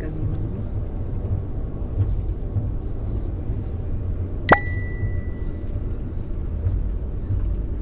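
Steady low rumble of a train running, heard from inside the coach. A little past halfway comes a single sharp metallic clink that rings on briefly at one high pitch.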